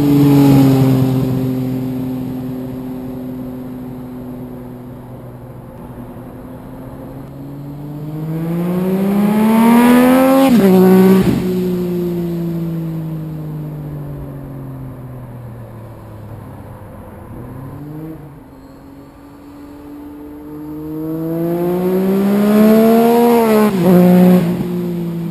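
Yamaha FZ-09's three-cylinder engine speeding up twice, its pitch climbing for a few seconds to the loudest point, then dropping suddenly and falling away slowly between the climbs.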